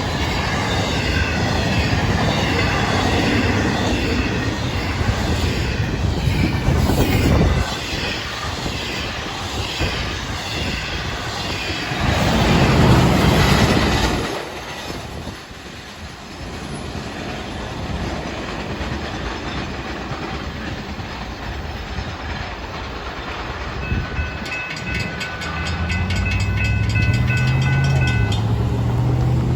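Freight cars of a Florida East Coast Railway intermodal train rolling past, wheels clattering over the rails, loud for about the first half before dropping away. Near the end a few seconds of high steady tones sound, and a low drone rises.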